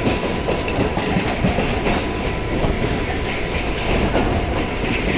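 Chennai MRTS electric multiple unit (EMU) train running, heard from on board: a steady rumble of wheels on the track with faint irregular clicks.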